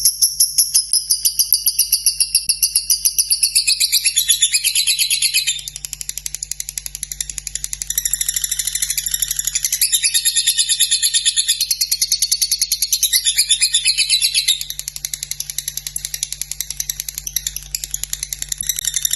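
Lovebird singing a long unbroken ngekek: a rapid, continuous chattering trill of high, scratchy pulses, several a second, that shifts in pitch and eases off in loudness a few times without pausing.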